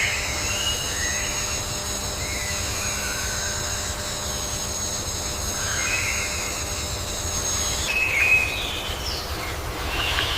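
Wild outdoor ambience: a steady, high-pitched, insect-like drone with short bird-like chirps scattered through it, over a low rumble.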